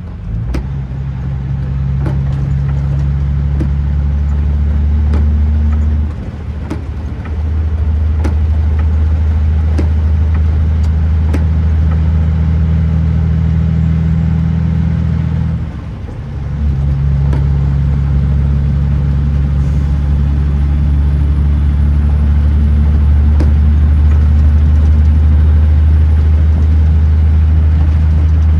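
Kenworth T909 truck's diesel engine pulling steadily with a deep, even hum. The engine note briefly drops away twice, about six and sixteen seconds in, as gears are changed, then picks up again.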